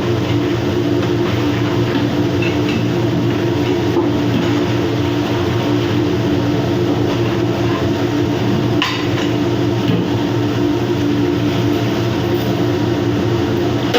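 Steady, loud mechanical hum of running machinery with a constant low drone, broken by a single light knock about nine seconds in.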